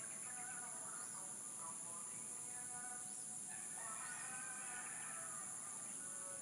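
A steady, high-pitched insect chorus, with a few short bird chirps over it and patches of lower, wavering animal calls that come and go.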